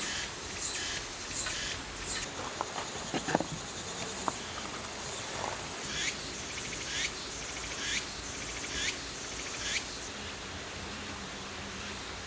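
An insect calling in short, high phrases that repeat about once a second, pausing briefly near the middle, over a steady hiss. A few sharp clicks and knocks about three seconds in.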